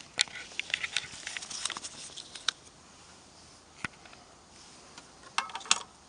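Irregular light clicks and taps: a quick scatter in the first two seconds or so, a single click in the middle and a short cluster near the end, like small hard objects being handled.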